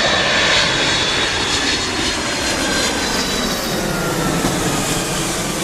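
Jet airliner on final approach passing close, its engines giving a loud steady rush with high whining tones that slowly drift lower in pitch.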